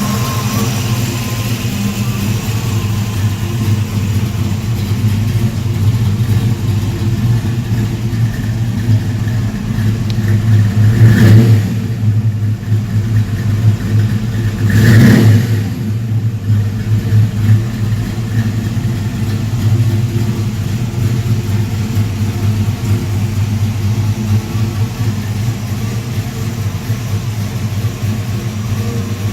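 1966 Ford Mustang Fastback custom's engine idling steadily, revved up briefly twice near the middle, about four seconds apart.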